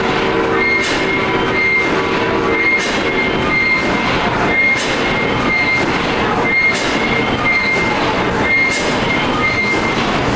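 1907 Snow Steam Pump Works 1,100-horsepower natural gas pumping engine running: a loud, steady mechanical clatter with a regular beat about once a second.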